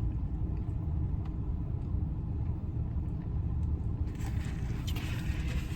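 A steady low rumble, with a light rustle about four seconds in and one sharp click near the end.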